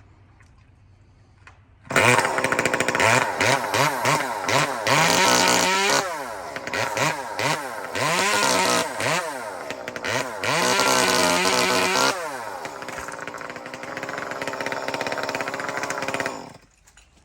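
Chainsaw starting up about two seconds in and revving up and down several times, its pitch rising and falling. It then runs more steadily at a lower level and stops suddenly near the end.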